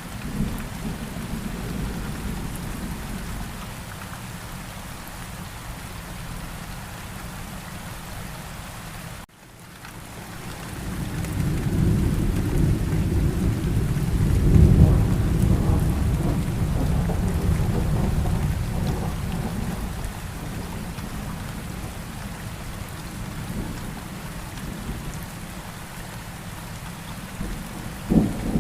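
Steady rainfall in a thunderstorm. After a momentary dropout about nine seconds in, a long low roll of thunder builds, peaks and fades away, and a sharp thunderclap cracks near the end.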